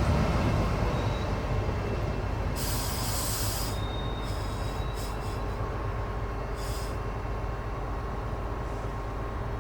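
A tram running on rails and moving away, its low rumble fading, with faint thin squealing tones and two short bursts of high hiss, one about three seconds in and a shorter one near seven seconds.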